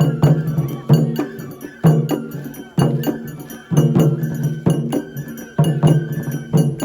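Traditional Japanese festival music: a drum is struck about once a second, each beat ringing out, with a faint steady high tone running between the beats.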